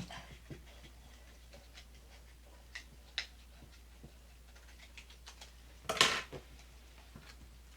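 Scattered light clicks and taps of small craft tools and objects being handled on a table. A short, louder scrape or rustle comes about six seconds in.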